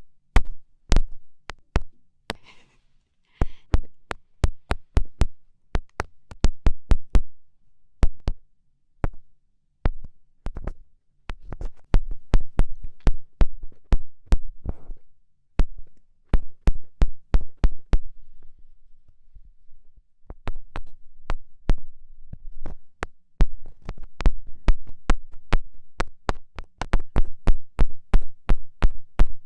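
Quick poking taps, many short sharp knocks a few per second, coming in clusters with brief pauses between them.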